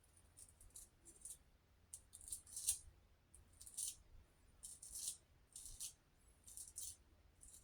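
Boar-bristle shaving brush whisking soap lather in a bowl: faint, wet swishing strokes, a couple a second at an uneven pace.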